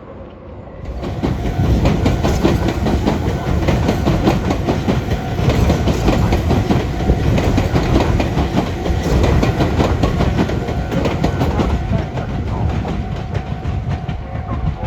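A Meitetsu electric train running over the junction's points, its wheels clattering over the rail joints in a dense run of rapid clicks. A faint steady whine sits under the clatter. The sound swells up about a second in and eases a little near the end.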